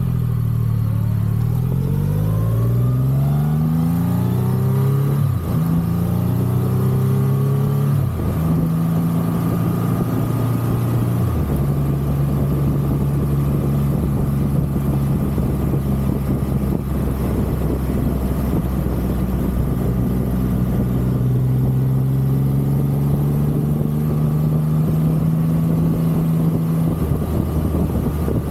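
Triumph Rocket 3's big inline-three engine pulling hard and rising in pitch through the gears, with short dips at each upshift about five, eight and eleven seconds in. It then settles to a steady cruising drone and eases off slightly near the end.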